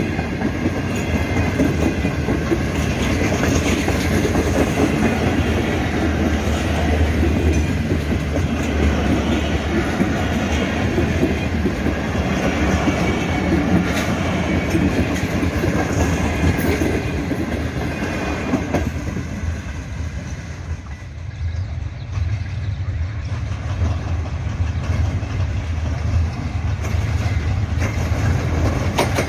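Passenger train coaches rolling past close by at speed, the wheels clattering over the rail joints. Around two-thirds of the way through the sound drops and changes to a lower, steadier running sound as a second train, led by a diesel locomotive, approaches.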